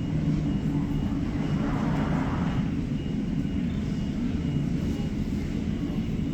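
Jet airliner engines running at taxi power: a steady low rumble with a faint thin high whine above it.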